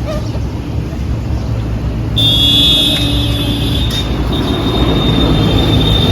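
Steady low vehicle rumble, with a high, steady squeal setting in about two seconds in and holding.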